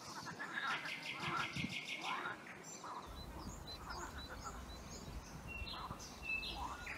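Birds chirping in short, scattered calls, with a steady low rumble coming in about three seconds in.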